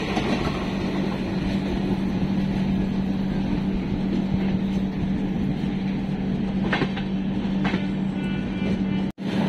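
Passenger express train running on rails, heard from on board: a steady rumble of wheels and coach with a constant low hum, and two short clatters about seven and eight seconds in. The sound cuts out for a moment just before the end.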